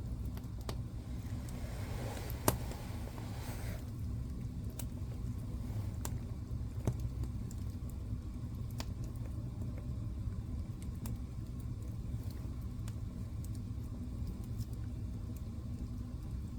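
Wood fire burning in a fireplace: a steady low rumble with scattered sharp crackles and one louder pop about two and a half seconds in, with a short hiss around it.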